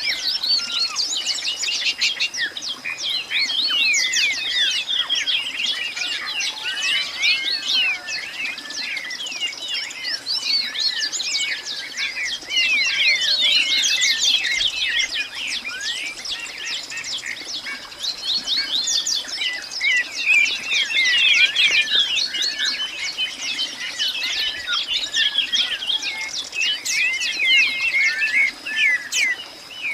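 Many birds chirping and calling at once in a dense, continuous chorus of short, overlapping chirps.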